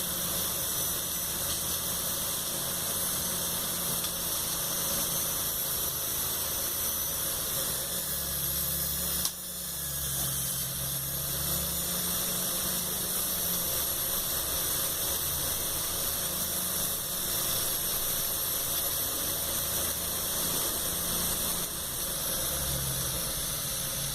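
Electric drill armature spinning under 12 V power with a loudspeaker magnet as its field: a steady high-pitched whine over a buzzing hum. There is a sharp click about nine seconds in, and the sound dips briefly after it.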